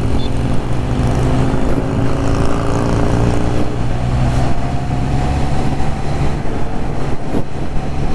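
Triumph Trident 660 motorcycle's three-cylinder engine running steadily under way, its pitch rising slowly as the bike gathers speed, over a steady rush of road and wind noise.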